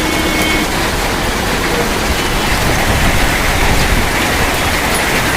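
Hailstorm: hailstones and heavy rain pelting down together in a dense, steady hiss.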